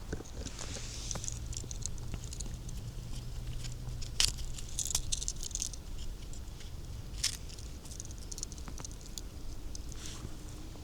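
Footsteps crunching and rustling through dry leaf litter and twigs on a forest floor, with scattered crackles and a sharp crack about four seconds in and another about seven seconds in.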